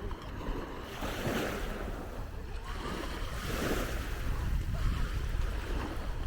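Sea waves washing onto a beach, the surf swelling twice, with wind buffeting the microphone.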